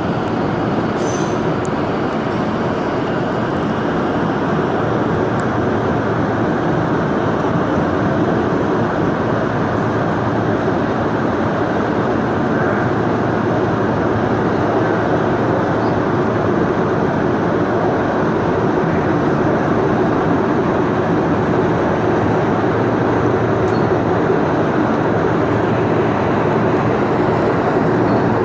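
Inside an R160A subway car under way: steady rumble and rush of the wheels on the rails and the car's running gear, growing slightly louder.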